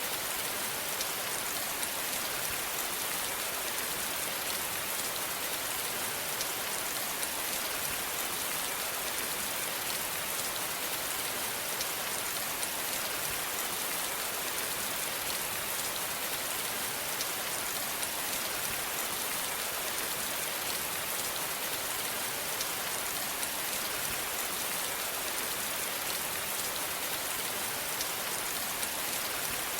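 Steady rain falling, with a continuous hiss and many fine drop ticks throughout.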